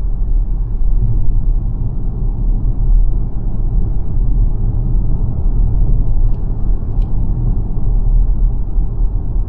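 Steady low road and tyre rumble from the Xpeng G9 Performance, a dual-motor electric SUV, as it drives along, with no engine note. A couple of faint ticks come about six and seven seconds in.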